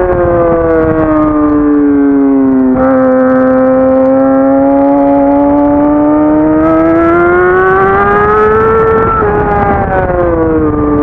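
Racing sport motorcycle engine in second gear: the revs fall for about three seconds, then climb steadily under throttle until about nine seconds in, dip and hold. Wind rush on the onboard microphone grows from about seven seconds in.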